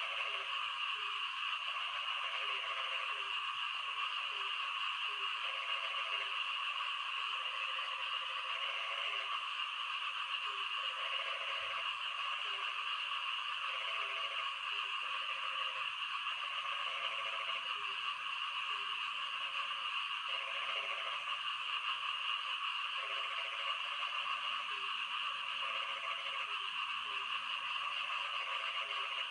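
Frogs calling during rain: a lower croak repeats roughly once a second over a dense, steady, high-pitched chorus.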